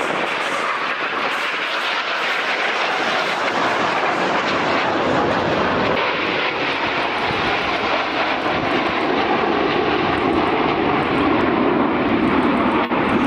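Formation of Frecce Tricolori Aermacchi MB-339 jet trainers flying past, a steady loud jet roar. The sound grows deeper through the second half as the jets pass.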